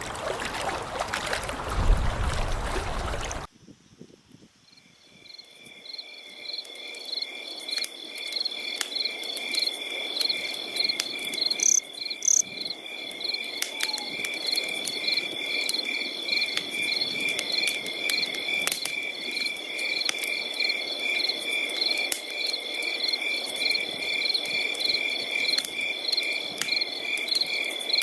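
Crickets chirping: one steady high trill and two fast-pulsing ones fade in about four seconds in and carry on evenly. Before them, a loud rushing noise cuts off suddenly about three seconds in.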